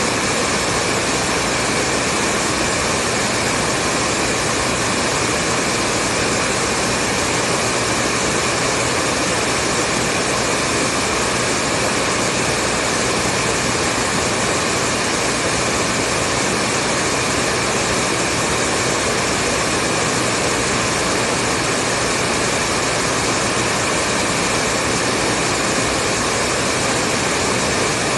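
Hair dryer running steadily: a continuous whooshing rush of air over the hum of its motor, with no change in level or pitch.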